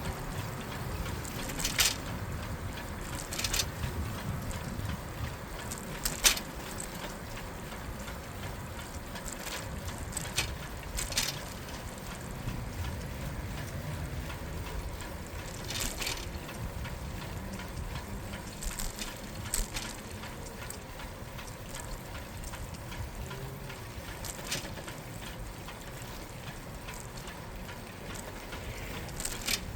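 Riding a bicycle along a city cycle path: a steady low rumble of wind and tyres on the microphone, broken every few seconds by sharp clicks and rattles, the loudest about six seconds in.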